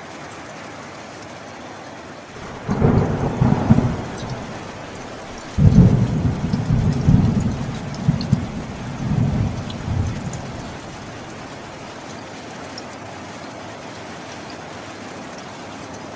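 Steady rain falling through a thunderstorm, with two rolls of thunder: a short rumble about two and a half seconds in, then a louder, longer one that rolls in several swells for about five seconds before dying back to the rain.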